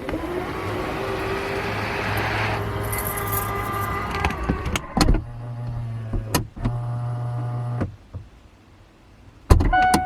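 A car's engine running, with a few clicks and knocks over it; the sound drops away for about a second and a half near the end.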